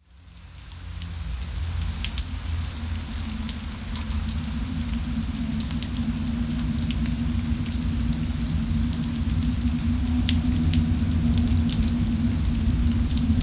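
Rain sound effect fading in over the first second or so: steady rain with many small drops ticking, over a low steady rumble and drone that builds slightly louder.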